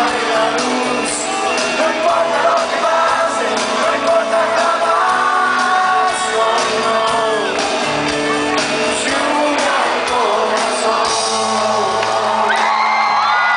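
Live pop-rock band playing with a sung lead vocal, loud throughout, with the audience shouting and whooping over the music.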